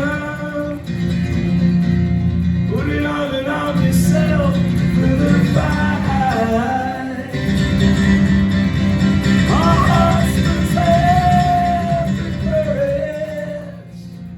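Strummed acoustic guitar with a voice singing long, held melodic notes without clear words; the music drops away near the end.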